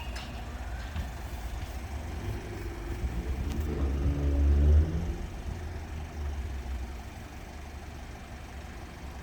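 Road vehicle engine noise: one engine swells to its loudest about four to five seconds in and then fades, over a steady low traffic rumble.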